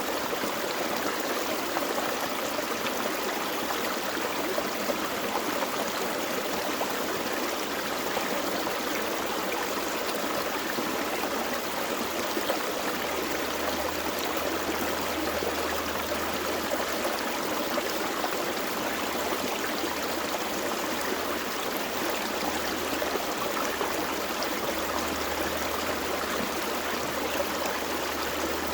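Gentle creek flowing steadily, an even rush of running water.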